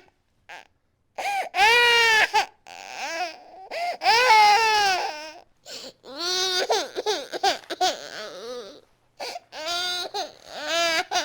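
Baby crying hard: a run of loud wails, each about a second long, rising and falling in pitch, broken by short gaps for breath.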